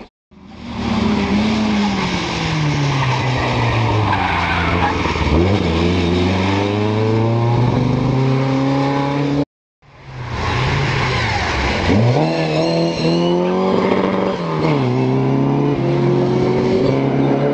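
Rally car engine running hard, its pitch rising and falling sharply as it revs and changes gear. The sound drops out abruptly about halfway through, then another run of hard revving begins.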